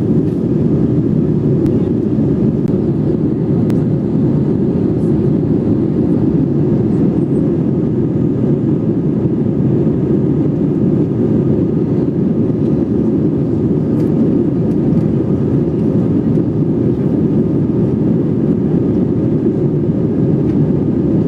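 Steady low rumble of an airliner cabin in flight: jet engine and airflow noise, with a few faint clicks.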